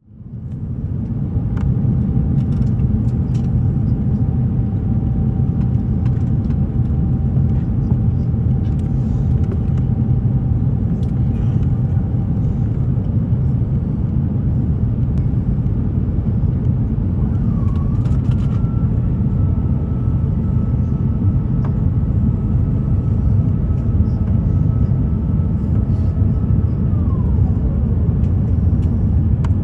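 Airbus A350-900 cabin in flight: the steady rumble of Rolls-Royce Trent XWB engine and airflow noise heard from inside the cabin. A faint steady whine runs through the first part, and a higher one later slides down near the end.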